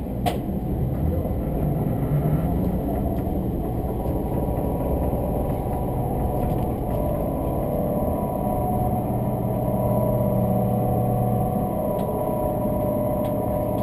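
Running noise of an express train heard from inside the carriage: a steady rumble of wheels on rail, with another train passing close alongside on the next track for the first several seconds. A steady hum joins the rumble about halfway through.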